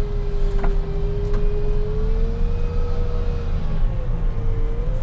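Rubber-tire wheel loader running: a steady low engine rumble with a whine above it that rises slightly past the middle, dips near the end, and climbs again.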